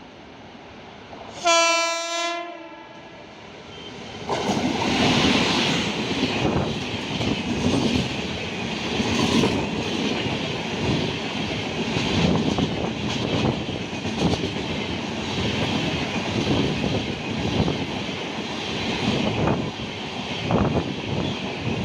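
An Indian Railways train horn sounds one blast of about a second, a single steady tone. From about four seconds in, the train passes at speed: a loud rush of wheels and coaches with clatter over the rail joints.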